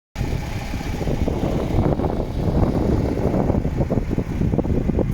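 Diesel engine of a MAN TGX 18.460 truck running with a steady low rumble, starting abruptly as the sound begins.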